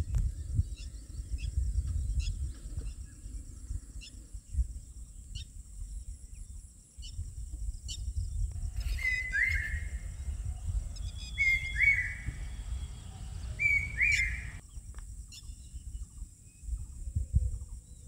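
Wild birds chirping, with a louder two-part call repeated three times about halfway through. A steady high-pitched hum and a low, uneven rumble run underneath.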